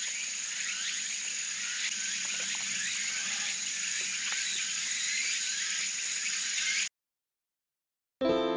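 A chorus of frogs calling, many short rising chirps, over a steady high-pitched trill, cut off suddenly about seven seconds in. Near the end a sustained musical chord comes in.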